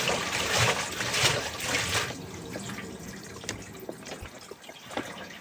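Water running and splashing, heavy for about the first two seconds, then easing off to a lighter trickle with scattered small clicks and drips.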